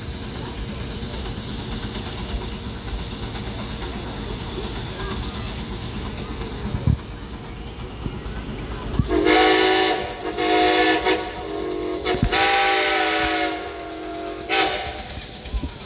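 Steam traction engine's whistle blown three times, starting about nine seconds in, the last blast the longest, over a steady low rumble.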